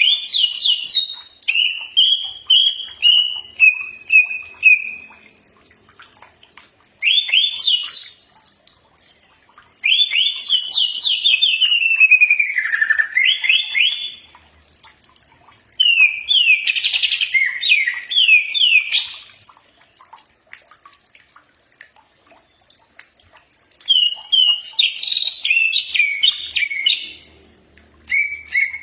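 Green leafbird (cucak ijo) singing loud, varied phrases of rapid chirps and trills, in about five bursts with short pauses between them.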